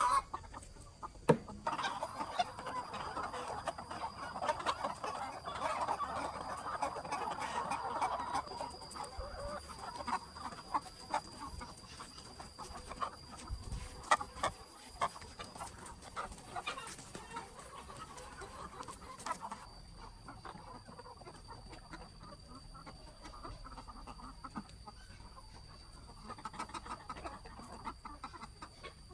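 A flock of capons clucking and chattering, busiest in the first third and thinning out afterwards, with scattered sharp knocks and a faint steady high whine.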